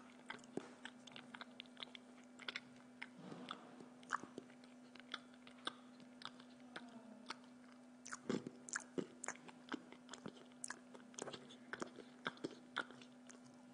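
A person chewing food, a run of short irregular mouth clicks, denser in the second half, over a steady low hum.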